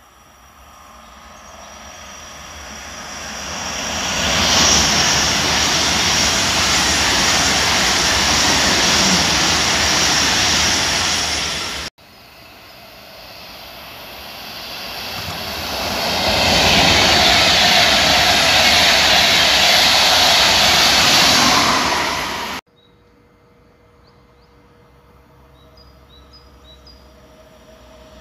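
Two trains passing through at speed. Each is a loud rushing noise that builds over about four seconds, holds steady, then cuts off abruptly. Near the end there is a quieter stretch with a faint steady hum.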